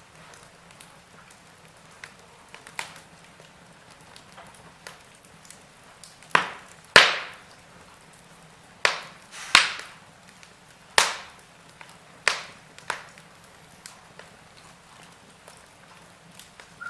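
Wood fire crackling: scattered sharp pops over a faint background hiss, with a run of louder snaps in the middle, the loudest about seven seconds in.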